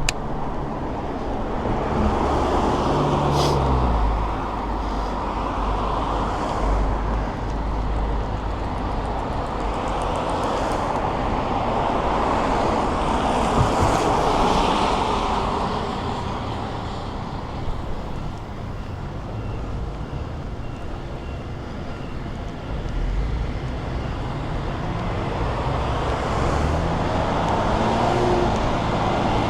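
Busy road traffic heard from a bicycle: a steady wash of engine rumble and tyre noise, swelling several times as vehicles pass close by.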